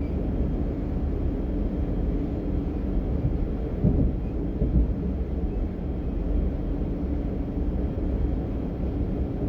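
DB Class 425 electric multiple unit running along the line, heard from inside the passenger compartment: a steady low rumble of wheels and running gear. A few louder knocks come about four seconds in.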